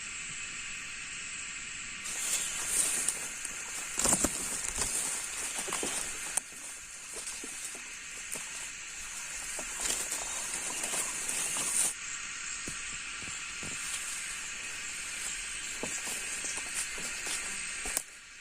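Footsteps and rustling through wet forest undergrowth, heaviest between about 2 and 12 seconds in, over a steady high hiss.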